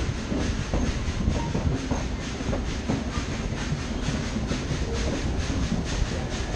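Narrow-gauge steam-hauled passenger train in motion: a steady rumble and clatter of the coach wheels running on the rails, heard from aboard a coach.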